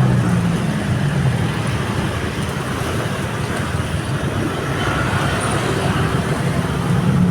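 Road traffic: motor vehicle engines running steadily, with a low hum and tyre noise, easing off slightly in the middle.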